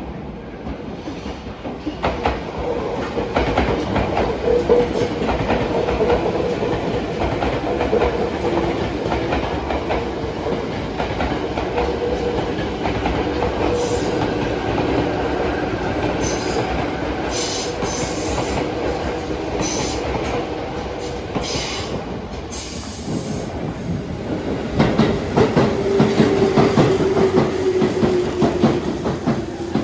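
Tobu Railway electric train running by, wheels clattering over the rail joints with a steady motor whine. About 25 seconds in the sound swells again and the whine slowly falls in pitch.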